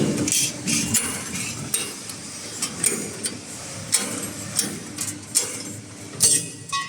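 Automatic angle steel punching machine running a cycle on angle iron, with a series of sharp metallic clanks and clicks at uneven intervals over a steady machine noise.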